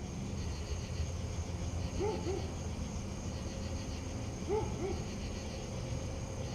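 Outdoor nature ambience: a steady low rumble and hiss, with two pairs of short rising-and-falling animal calls, the first about two seconds in and the second about two and a half seconds later.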